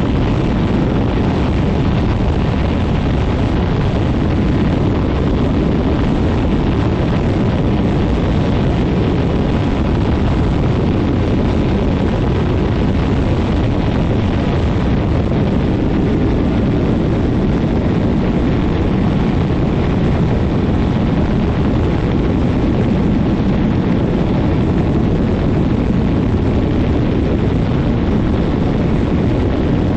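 Quicksilver MX ultralight floatplane's engine and propeller running steadily, buried in a heavy, even rush of prop blast over the microphone.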